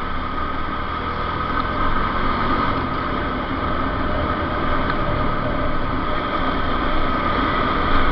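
Motorcycle engine running under way, mixed with wind rushing over the microphone, the whole sound slowly growing louder.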